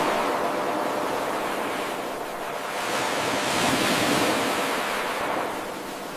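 Ocean waves washing onto a shore: a steady surge of surf that eases off, then swells again about halfway through and ebbs away toward the end.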